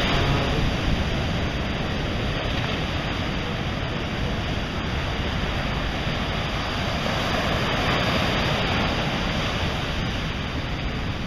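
Ocean surf washing onto a beach: a steady rush that swells a little about eight seconds in.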